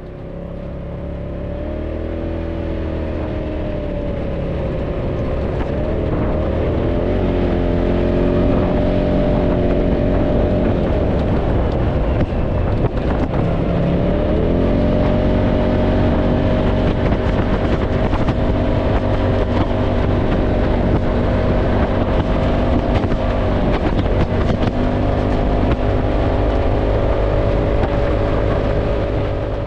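Side-by-side UTV (Polaris RZR) engine running under way, growing louder over the first several seconds, its pitch dipping and recovering a couple of times as it eases off and picks up speed. Wind buffets the microphone in the open cab.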